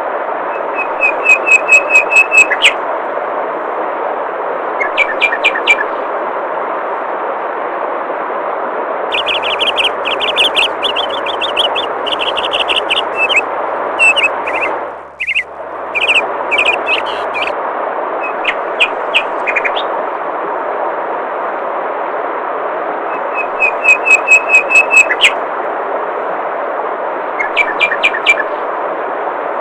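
Steady rush of flowing water with small birds chirping over it. Short rapid runs of high chirps come a few times, with denser chirping in the middle. The water sound briefly dips out about halfway through.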